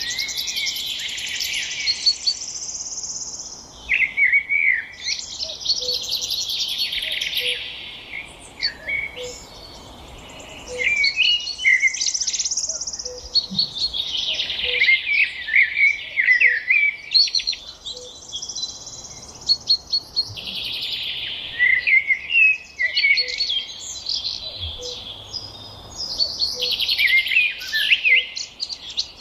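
Many small birds chirping and twittering at once, a dense high-pitched chorus that swells and eases in waves. A soft low note repeats about once a second underneath.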